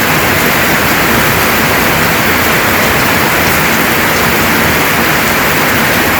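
Heavy rain falling steadily in a downpour, a loud even hiss.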